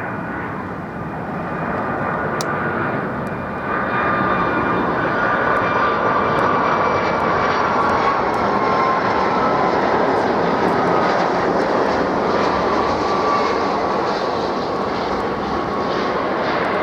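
Jet airliner passing close by, its engines loud, swelling about four seconds in, with a high whine that slowly falls in pitch.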